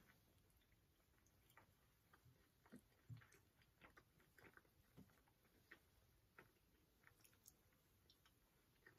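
Faint chewing of soft cookies, close up: scattered small clicks and smacks from mouths at irregular intervals.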